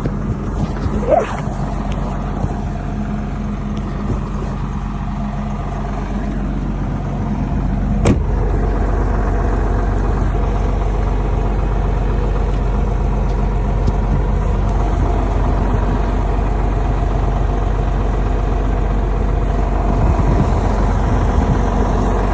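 An engine running steadily, with a sharp click about eight seconds in, after which it runs louder.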